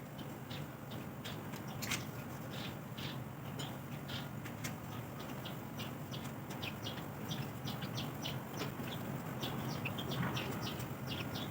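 Small birds chirping in quick, irregular short notes, more often in the second half, over a steady low hum.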